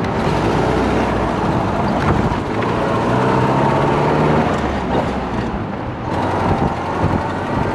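Ford Model A four-cylinder engine running under way in an open speedster, its pitch climbing as it accelerates from about two and a half to four and a half seconds in, over road rumble.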